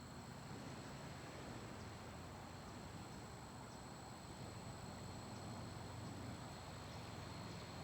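Faint, steady high trilling of crickets over a soft low wash of small waves on the beach.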